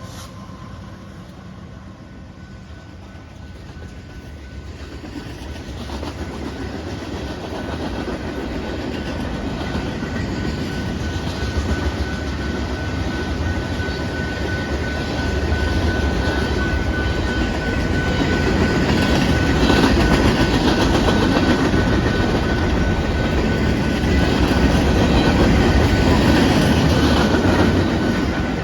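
Canadian Pacific manifest freight train passing, its rumble and wheel clatter over the rails growing steadily louder, with a steady high-pitched tone held throughout.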